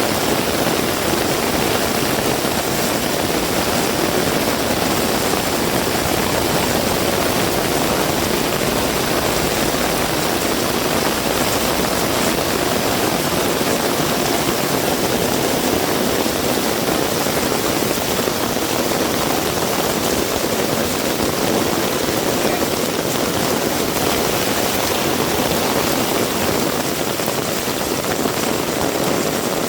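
Heavy rain falling in a steady, dense downpour, an even hiss with no let-up.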